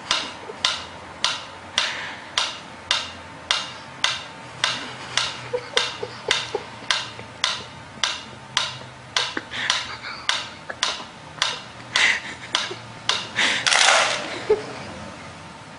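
A steady run of sharp clicks, a little under two a second and evenly spaced, followed near the end by a louder, longer rustling burst.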